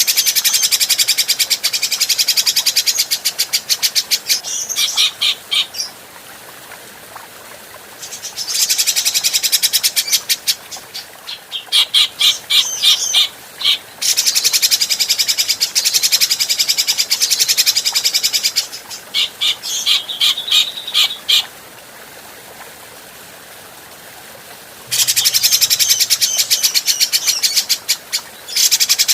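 Cucak jenggot (grey-cheeked bulbul) singing in bouts of fast, harsh chattering with pauses of a few seconds between them.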